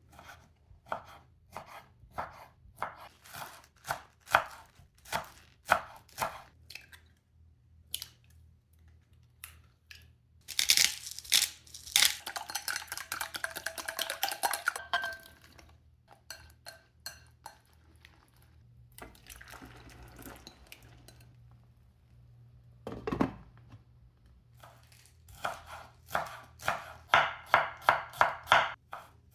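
A knife chopping ingredients on a cutting board in runs of sharp, evenly spaced strokes, quickening to about three or four a second near the end. In the middle comes a denser stretch of kitchen clatter, and a single heavy thump falls a little past the three-quarter mark.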